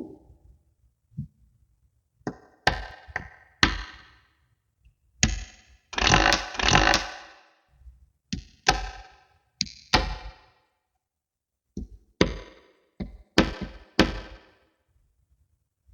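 Small spherical neodymium magnet balls snapping and clicking together one after another as they are placed, at irregular intervals of about a second, with a longer rattling clatter of many balls about six seconds in.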